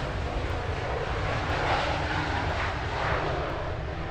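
Airliner jet engines running, a steady low rumble under a broad rushing noise that swells slightly midway.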